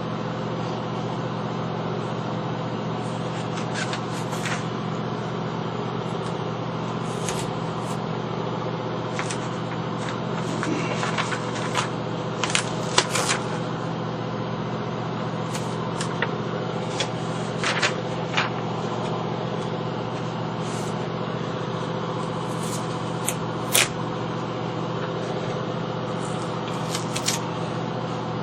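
A steady low mechanical hum, with scattered short clicks and scrapes of hand work, a few of them louder.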